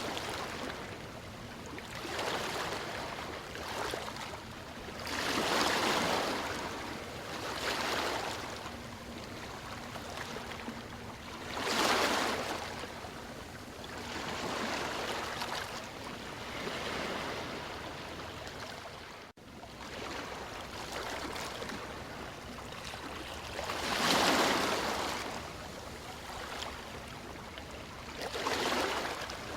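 Ocean waves breaking and washing ashore in slow, uneven swells every few seconds, over a steady background wash. One abrupt momentary dropout about two-thirds through, like a splice in the recording.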